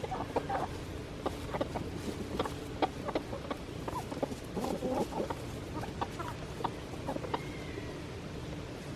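Backyard chickens clucking quietly, with many short ticks and taps scattered through and a brief high chirp about seven seconds in, over a faint steady hum.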